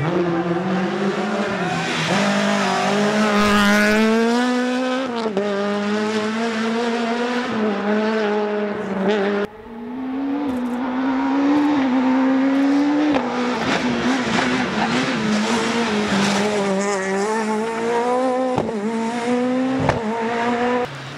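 Rally car engine held at high revs through a stage, its pitch climbing and dipping with throttle and gear changes. About halfway the sound cuts off abruptly, then picks up again with an engine at similar revs.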